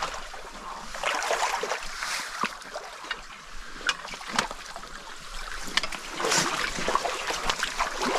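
Shallow stream water splashing and trickling, with scattered sharp splashes as people wade through it.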